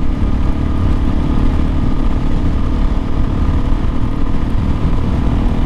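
Kawasaki KLX 400's single-cylinder four-stroke engine running steadily at road-cruising speed, under a heavy rush of wind and road noise.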